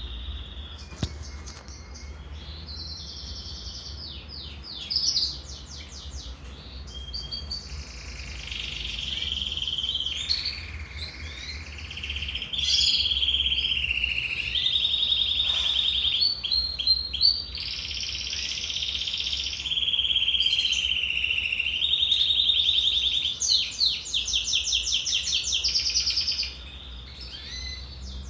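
Canary singing a long, continuous song of rapid trills and rolls, the phrases changing every second or two, louder through the middle and easing off near the end. A steady low hum sits underneath.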